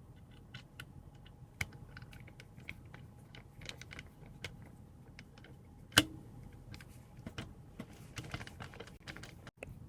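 A run of irregular small clicks and taps, with one much louder sharp click about six seconds in, over a low steady hum.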